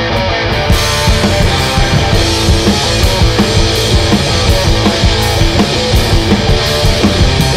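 Live garage-punk rock band playing loud: electric guitar with the full drum kit and cymbals coming in just under a second in, then a steady pounding beat.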